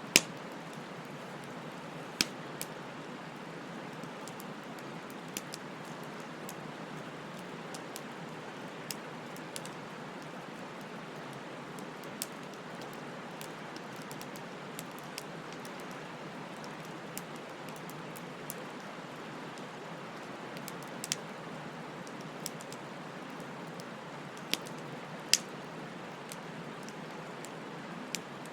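Wood bonfire burning: a steady hiss with scattered sharp crackles and pops at irregular intervals. The loudest pop comes right at the start, with further strong ones near the end.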